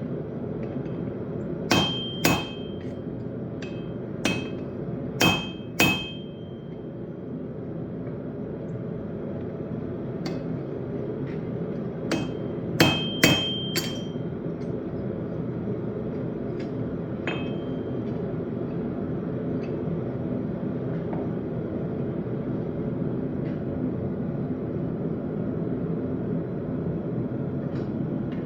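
Forging hammer striking steel on an anvil in short groups of two or three blows, each with a brief metallic ring, about eight blows in the first half and only faint taps after. A steady low noise runs underneath.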